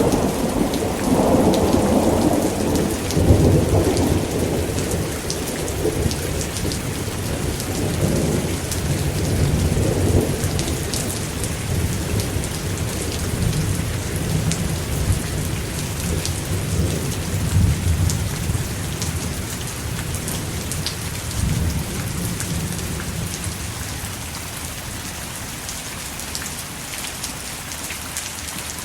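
Steady heavy rain with fine raindrop patter and rolling thunder. The rumble is strongest early on and dies away over the second half, leaving the rain alone near the end.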